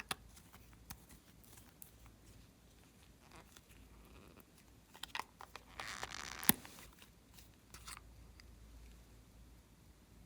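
Small sharp clicks and crackles of slime and makeup items being handled. About six seconds in comes a short crackly rustle that ends in the loudest click.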